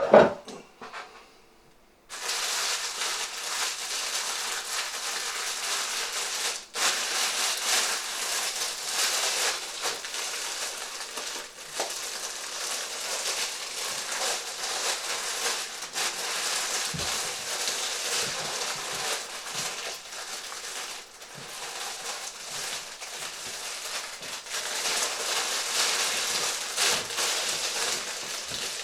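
Plastic packaging crinkling and crackling as it is handled and opened, unevenly and with only brief pauses. A short, loud knock at the very start comes before it.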